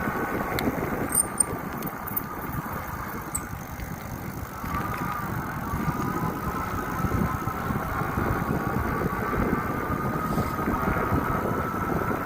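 Riding noise from a bike moving through a parking lot: a steady rumble under a thin hum whose pitch drops about five seconds in and then climbs back up, with a few light ticks in the first few seconds.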